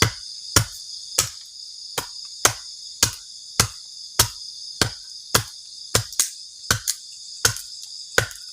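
Crickets chirping steadily at night, with about sixteen sharp knocks, roughly one every half second or so, that are louder than the crickets, like wood being chopped or hammered.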